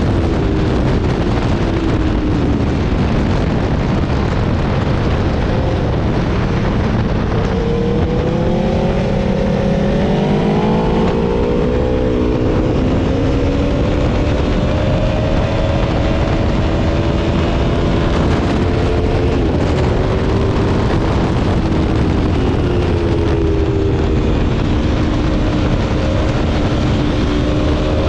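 Aprilia Tuono V4 motorcycle's V4 engine running hard at track speed under a loud, steady rush of wind noise. Its pitch climbs about a third of the way in, then mostly holds, with a few brief dips.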